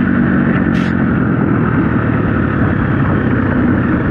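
Dirt bike engine running steadily under load while riding, loud and continuous.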